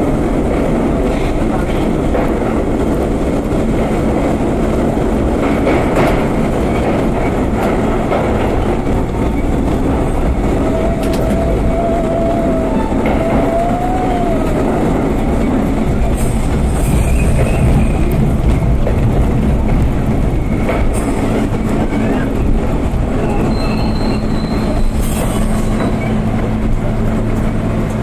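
R32 subway train running on the rails: a steady rumble with wheels clicking over rail joints. Twice it gives brief wheel squeals, a wavering one in the middle and a higher one near the end.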